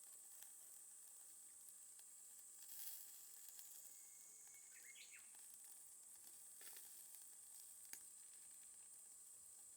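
Faint steady sizzling hiss from a charcoal fire, with a few sharp crackles now and then.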